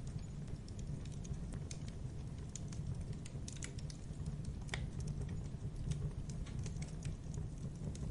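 Campfire burning: a steady low roar of flame under irregular sharp crackles and pops of burning wood.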